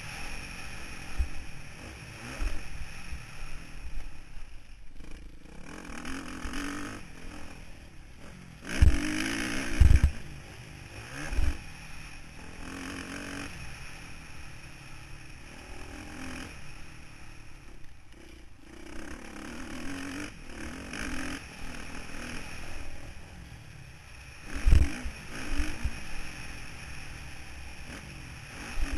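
Motocross bike engine running over a dirt track, heard from an onboard camera, with some clatter and scraping. Heavy low thumps come around nine to eleven seconds in and again near twenty-five seconds.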